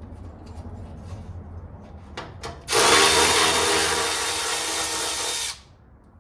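A few light clicks, then a power ratchet runs for about three seconds, spinning out a 10 mm bolt, and stops abruptly.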